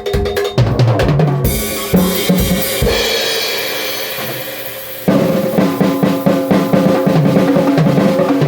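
Drum kit playing: low kick-drum hits, then a cymbal wash that slowly dies away, then a sudden loud, busy passage of fast drumming with pitched tones underneath from about five seconds in.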